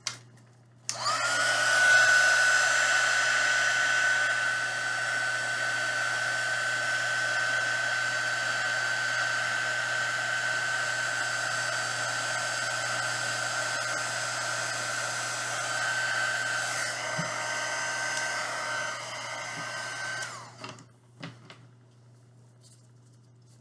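Heat gun switched on about a second in, its fan whine rising quickly to a steady pitch over a blowing rush, running steadily for about twenty seconds, then switched off, followed by a couple of small knocks.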